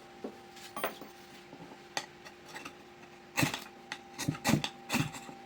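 Light clicks, then a cluster of louder metallic clicks and scrapes in the second half, as a piece of homemade solid fuel is being lit.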